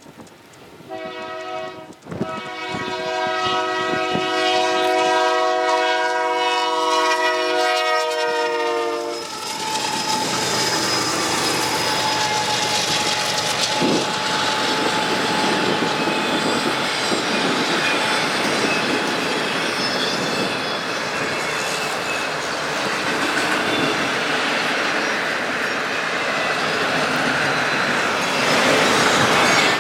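Union Pacific freight train's locomotive air horn sounds one long blast, and its pitch drops as it ends. Then comes the steady rumble and clatter of the freight cars rolling past.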